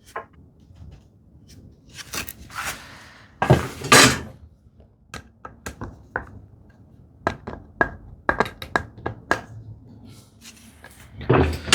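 Irregular light knocks and clicks of metal and wood, with a couple of short scraping sounds about two to four seconds in, as the depth of a handmade rabbet plane is adjusted.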